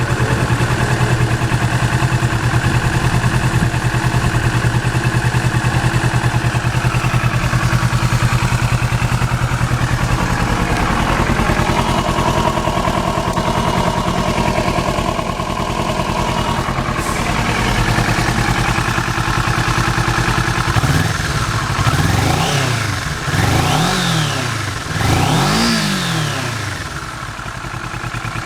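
Kawasaki Ninja 400R's parallel-twin engine idling steadily through its stock muffler. About three quarters of the way in it is blipped up and back down a few times in quick succession, then settles back to idle.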